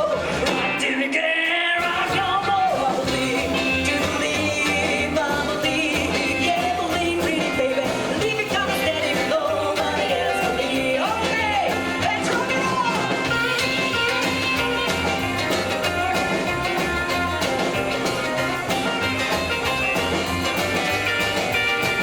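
Live rockabilly band playing a song with a singer. The bass drops out briefly about a second in, then the band plays on.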